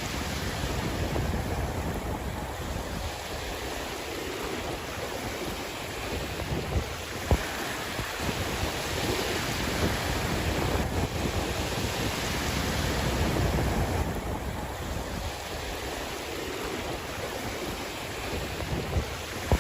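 Sea waves washing onto the shore, the surf rising and falling in slow swells, with wind buffeting the microphone. A brief sharp click about seven seconds in.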